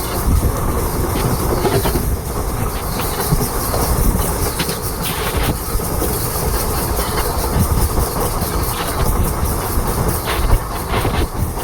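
Indian Railways express train with LHB coaches running on the line, a steady heavy rumble with irregular wheel clatter over the rail joints.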